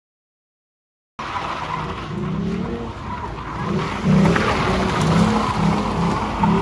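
Sports car drifting: tyres squealing continuously while the engine revs in repeated rising surges. The sound starts suddenly about a second in and grows louder about four seconds in.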